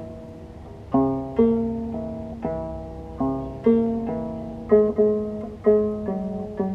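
Arpa-Ruedófono, a harp made from a bicycle wheel and amplified through a piezoelectric pickup, being plucked. It plays about a dozen pitched notes in a repeating melodic figure, each note ringing and fading before the next.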